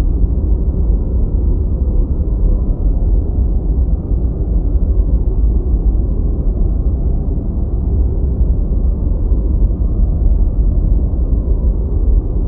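Steady deep white noise: an even, dull rush with its weight in the low end and almost nothing in the high range.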